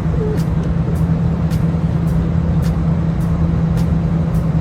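A steady, loud, low engine hum, with a faint, regular tick about twice a second.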